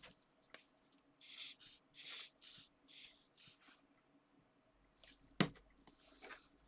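Hands working on a paper card: about six short scratchy rubbing strokes over a couple of seconds, then a single sharp tap.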